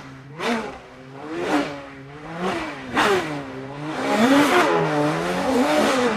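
Car engine revving sound effect: repeated surges that rise and fall in pitch about once a second, running more steadily and louder from about four seconds in.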